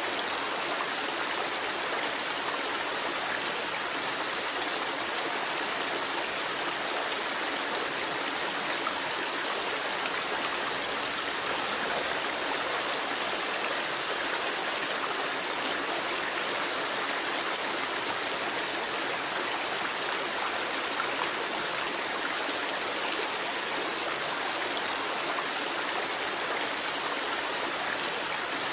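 Babbling creek: a steady rush of running water that keeps an even level throughout.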